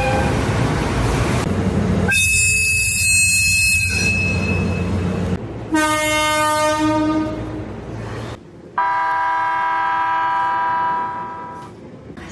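Train horns and whistles sounded one after another in abrupt cuts over train running noise: a high, shrill blast about two seconds in, a shorter horn that steps in pitch near the middle, and a long steady horn from about nine seconds.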